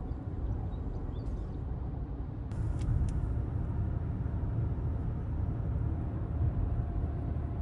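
Steady low rumble of a car driving on the road, with a couple of faint ticks.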